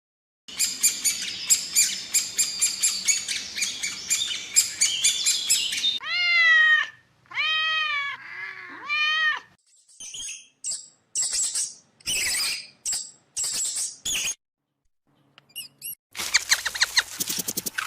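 A run of separate animal calls, mostly birds: a dense chatter of rapid chirps, then three rising-and-falling pitched calls, then a string of short high chirps, and rapid chirping again near the end.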